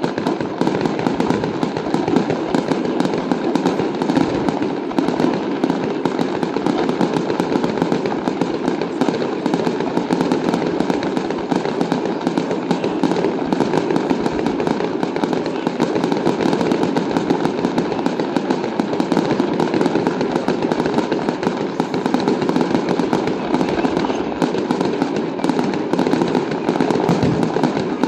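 Fireworks display going off in a continuous rapid barrage of bangs and crackles, many reports every second with no pause.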